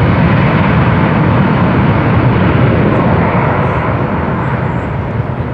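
An aircraft's engine running loud and close, a steady dense noise that begins to fade slowly near the end.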